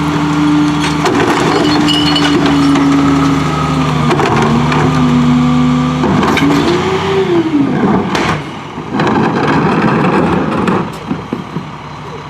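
Garbage truck engine running fast under load with a steady droning whine, the pitch dipping slightly a few times, then swelling up and falling away about seven seconds in. A sharp bang follows just after eight seconds, then about two seconds of dense clattering, before the sound drops off.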